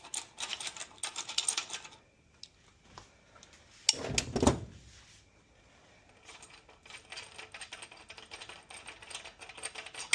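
Socket ratchet clicking in quick runs as the main bearing cap bolts of a Continental Z134 tractor engine are backed out after torquing, with one heavier metal clunk about four seconds in and lighter, scattered clicking near the end.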